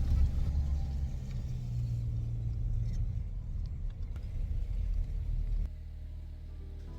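Low steady rumble with a few faint clicks, dropping away sharply about five and a half seconds in to a quieter hum.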